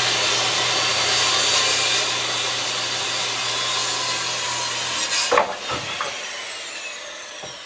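Electric power saw cutting through wood, its motor running steadily under load. The cut ends with a knock about five seconds in, and the blade then winds down with a falling whine.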